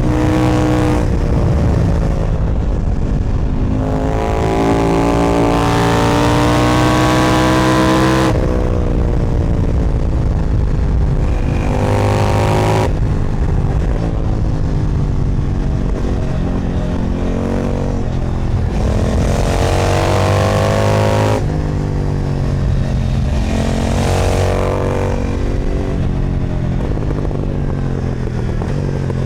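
KTM 990 Duke's parallel-twin engine through an Austin Racing exhaust, revving up in several hard pulls whose pitch climbs steadily. After each pull the sound drops off sharply or sinks back as the throttle closes, twice cutting away abruptly, about a third of the way in and again about two-thirds in.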